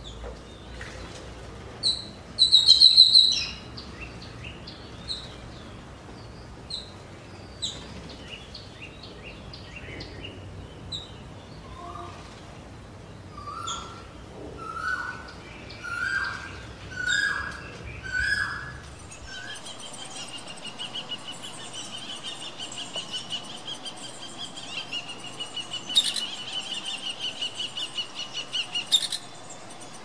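Wild birds calling and singing: a loud burst of high chirps about two seconds in, then a run of about six whistled notes a little over a second apart, each louder than the last. A fast, steady, high trill takes over for the last third.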